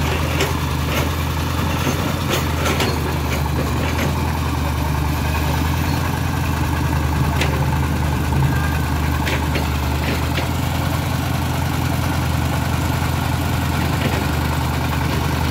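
A vehicle engine idling steadily and close by, with a few light clicks over it.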